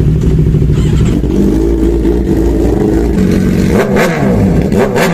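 Suzuki GSX-R600 inline-four sportbike engine revving hard through its exhaust, its pitch dipping and climbing back again about four seconds in and once more near the end.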